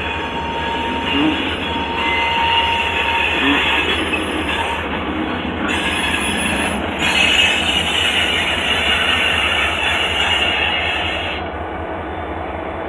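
Freight train moving slowly along the track: a steady low rumble and rolling noise, with a thin wheel squeal in the first few seconds. The sound grows quieter about eleven seconds in.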